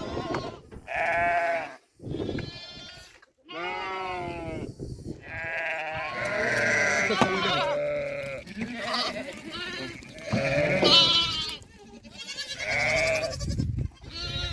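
A flock bleating: a run of long, wavering bleats, one after another at first, then several animals calling over each other through the middle.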